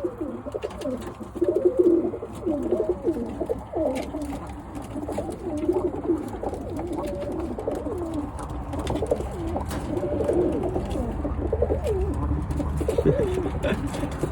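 Several Birmingham roller pigeons cooing, many overlapping coos with no pause, with a few sharp clicks among them.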